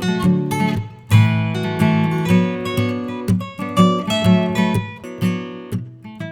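Background music: strummed acoustic guitar playing a steady rhythm, with a brief break about a second in.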